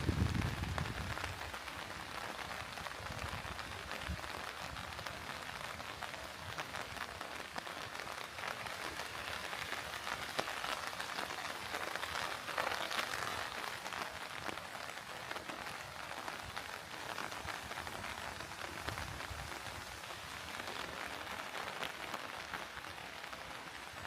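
Steady rain falling, an even hiss with many single drops ticking close by. A brief low rumble sounds in the first second.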